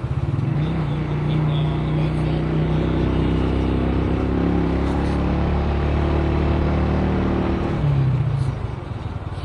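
Car engine pulling under load: a steady hum with a clear pitch from about half a second in, easing off near the end to a low throbbing rumble.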